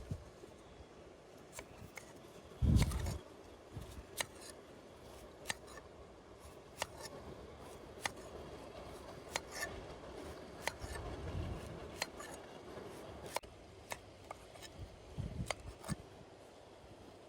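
A steady series of short, sharp cutting or clicking strokes, evenly spaced about every second and a quarter. A dull low thump comes about three seconds in, the loudest sound, with softer thumps later.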